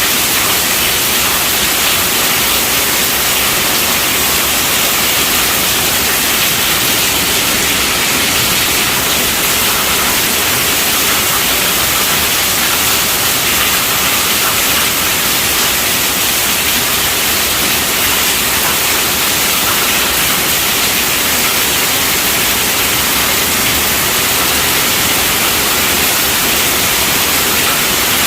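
Steady heavy rainfall: an even, unbroken hiss that holds at the same level throughout.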